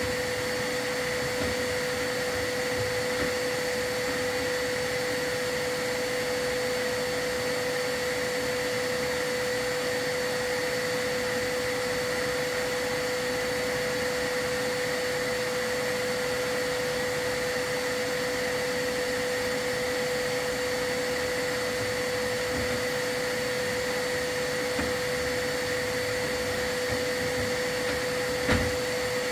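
Vacuum motor running steadily with an even, high-pitched whine, typical of the dust-control vacuum run while a fireplace is swept; a single short knock near the end.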